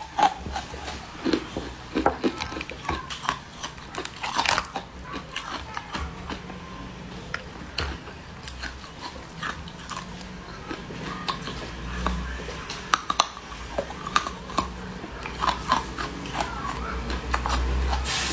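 Close-up eating sounds of soft leaf-shaped cakes: many short, wet bites, mouth clicks and smacks at an irregular pace, over a steady low hum. A hiss swells near the end.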